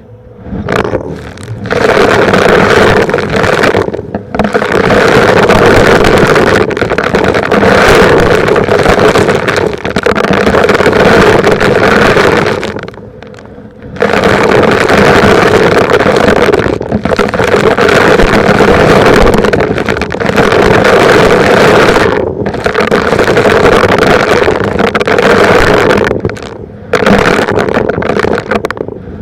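Vacuum cleaner running loud as it sucks up rocks and grit, with scraping and crackling from the debris. The sound drops away briefly several times.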